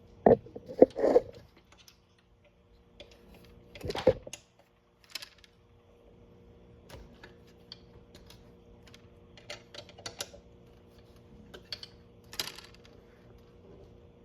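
Small metal parts and hand tools clicking and clinking while the rear brake caliper hardware of an ATV is worked on: a few sharp knocks in the first second, another about four seconds in, then lighter scattered clicks.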